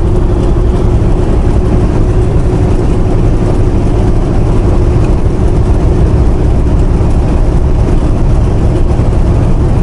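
Semi truck cab while driving: the engine and road noise make a steady low rumble with a steady hum on top.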